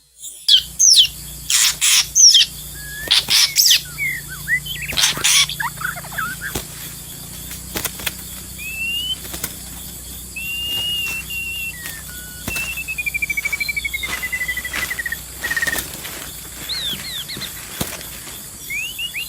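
Songbird calling: several loud noisy bursts in the first few seconds, then a run of clear whistled notes and, around the middle, a long trill falling in pitch.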